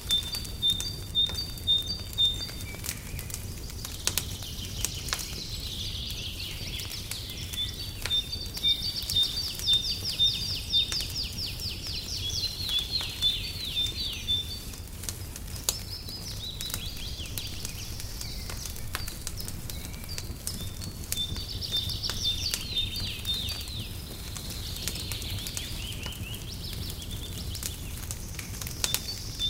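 Birds singing in rapid series of high chirps and trills, over the scattered pops and crackles of a wood fire and a steady low rumble.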